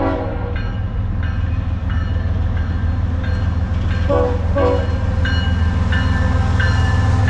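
A freight train running past, with the diesel locomotives' heavy, steady low rumble. Short pitched tones sound twice about four seconds in.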